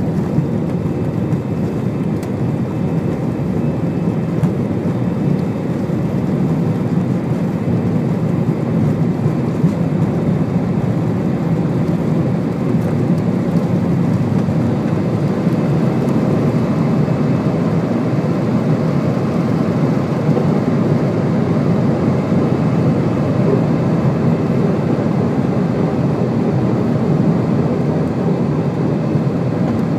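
Steady jet-engine and airflow rumble inside an Airbus airliner's cabin, with the Rolls-Royce engines running.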